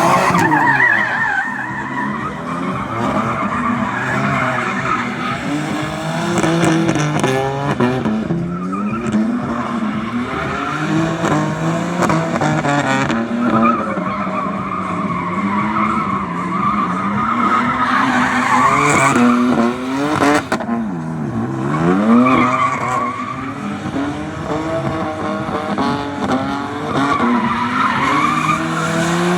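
BMW M3 engine revving hard, rising and falling again and again, with tyres squealing. About two-thirds of the way through the revs drop sharply and climb straight back.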